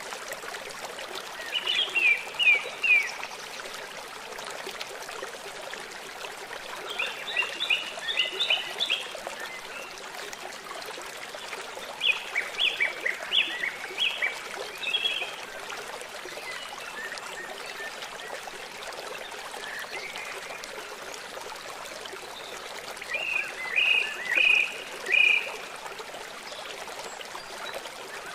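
A river running steadily, with a small bird singing four short bursts of quick, sharp chirps over it.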